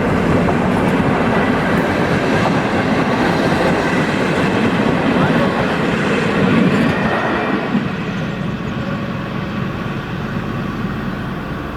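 ÖBB Class 2050 two-stroke diesel locomotive hauling passenger cars past, engine running and wheels rolling on the rails. It stays loud for about seven seconds, then fades as the train moves away.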